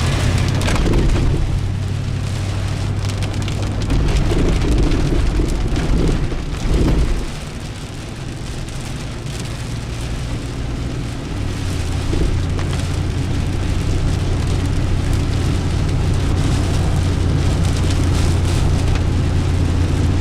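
Steady rain, with a constant low hum underneath that fades about seven seconds in and comes back stronger a few seconds later.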